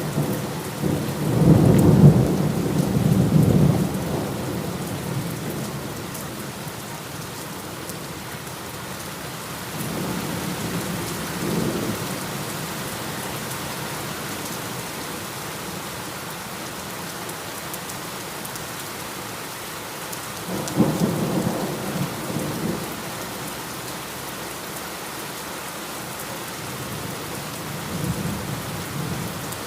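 Steady heavy rain hissing, with rolls of thunder rumbling over it: a loud one in the first few seconds, softer rolls around ten and twenty seconds in, and another starting near the end.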